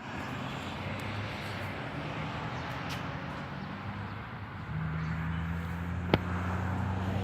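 A motor running steadily with a low hum, growing louder and steadier about halfway through, with a sharp click near the end.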